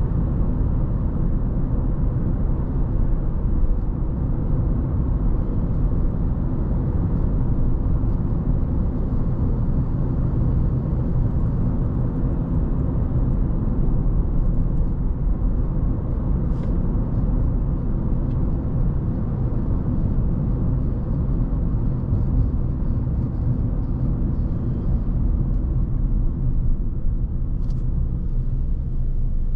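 Steady low rumble of a car driving along, mostly tyre and road noise, even throughout. A couple of faint ticks sound in the second half.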